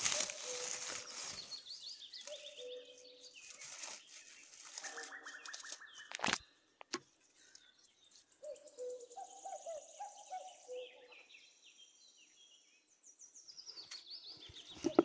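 Small forest birds calling and chirping on and off, with grass and leaves rustling in the first second or so as a hand pushes through the undergrowth, and a sharp click about six seconds in.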